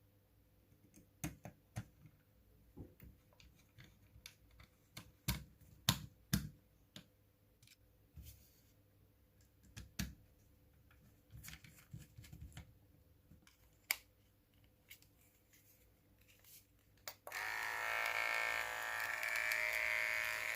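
Small plastic clicks and knocks as the hair clipper's cover and guide are fitted, then about 17 seconds in the Xiaomi Enchen hair clipper switches on and runs with a steady electric buzz, staying on now that its faulty switch has been repaired.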